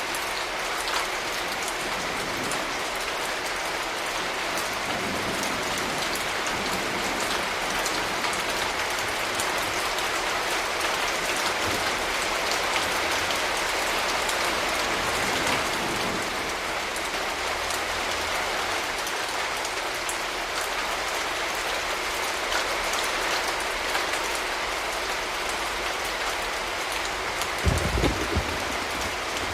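Steady rain falling, with individual close drops ticking through the hiss. Near the end there is a brief low thump.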